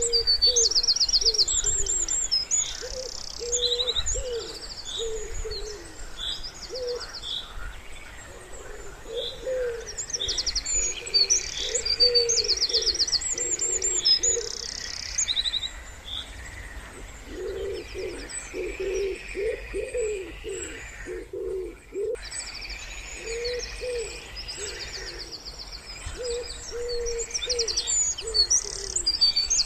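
Wood pigeon cooing in low, repeated phrases, with small songbirds singing high, rapid trills and chirps over it.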